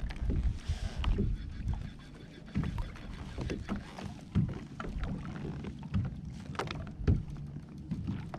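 Small irregular knocks and taps against a kayak hull, with water lapping and a low rumble underneath.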